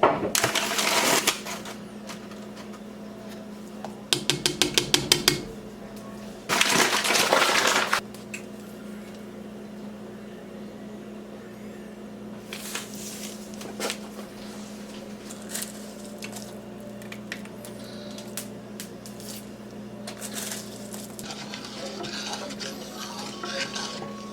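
Kitchen work while pickling eggs: noisy bursts at the start and about six seconds in, a quick rattle of about a dozen clicks a second about four seconds in, and scattered small clicks and clinks of dishes and utensils, over a steady low hum.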